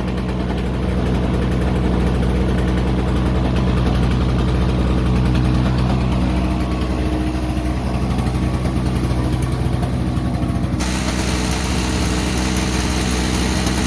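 Toro CCR 2500 snowblower's 5 hp two-stroke engine running steadily, newly started after a carburetor cleaning, with its muffler full of oil. About eleven seconds in, the sound abruptly turns brighter and harsher.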